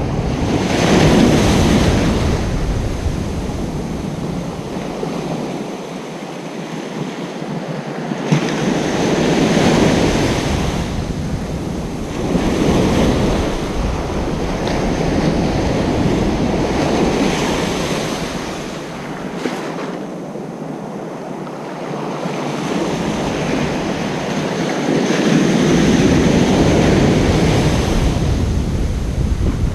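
Ocean surf on a beach, waves breaking and washing up in slow surges every few seconds. A low rumble of wind on the microphone runs underneath and drops away twice for a few seconds.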